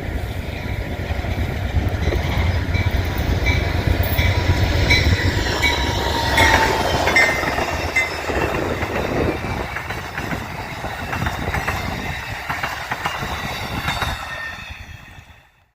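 VIA Rail passenger train rolling past, a steady rumble with wheels clicking over rail joints and brief thin wheel squeals partway through. The sound fades away just before the end.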